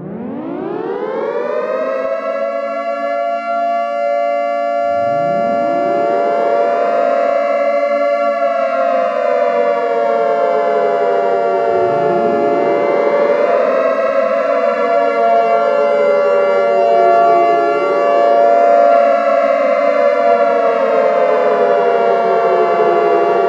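Civil defense air-raid sirens sounding an alert: several overlapping wails, each winding up from a low pitch to a high held tone and then slowly falling. A new siren starts up every five to seven seconds while the earlier ones are still sounding.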